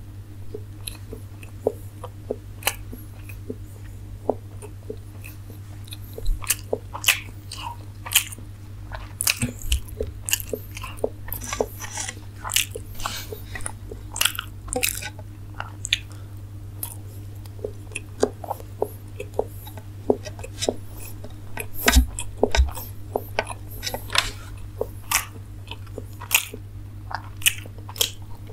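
Close-up mouth sounds of a man eating steamed momos dipped in tomato sauce: wet, irregular chewing, biting and smacking clicks, with a steady low hum underneath.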